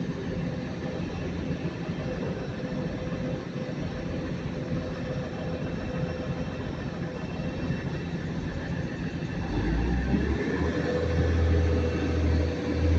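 A Class 185 diesel multiple unit's Cummins diesel engines run at the platform with a steady hum. About ten seconds in, a deep drone swells and grows louder as the engines power up to pull the train away.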